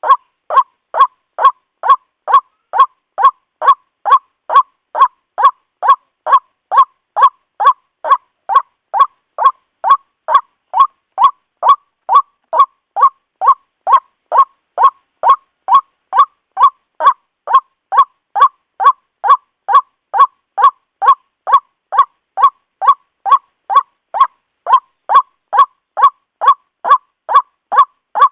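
White-breasted waterhen (ruak-ruak) call played as a trapper's lure recording: short, harsh single notes repeated evenly about twice a second.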